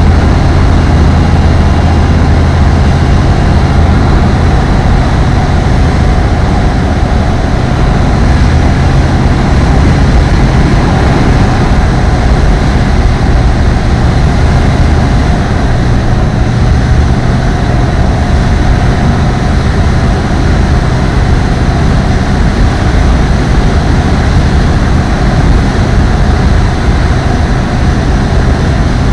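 Light aircraft's engine and propeller running at a steady cruise setting, a loud, even drone with a strong low hum.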